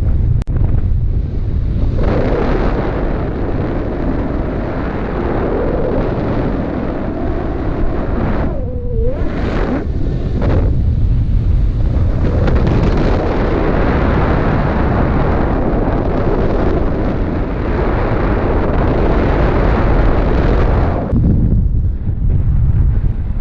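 Wind rushing over the microphone in flight, a loud, steady buffeting with a brief lull about nine seconds in.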